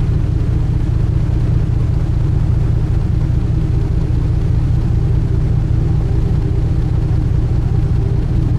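A sightseeing cruise ship's engines running at steady cruising speed: a loud, even, low droning rumble.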